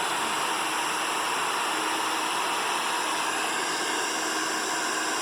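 Sun Joe 15-amp electric wood chipper running steadily, a constant motor whine under the hiss of its spinning blades.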